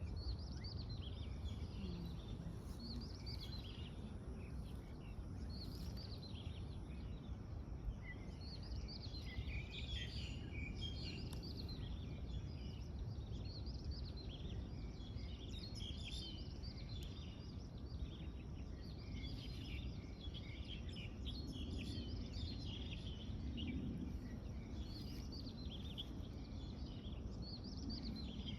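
Several birds chirping and singing, many short calls overlapping, over a steady low background rumble.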